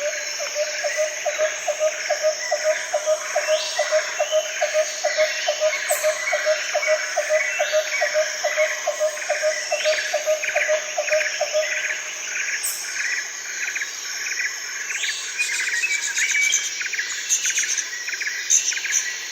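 Jungle ambience: many birds calling and chirping over a steady high drone of insects. For the first twelve seconds or so, a low note repeats evenly about three times a second, then stops.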